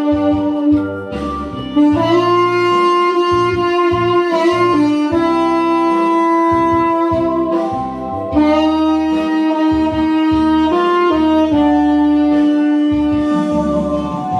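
Tenor saxophone playing a slow melody in long, held notes over a musical accompaniment with a bass line.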